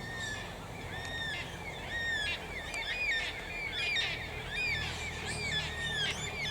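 A flock of yellow-tailed black cockatoos calling: many drawn-out calls, each rising and falling in pitch, overlapping one after another.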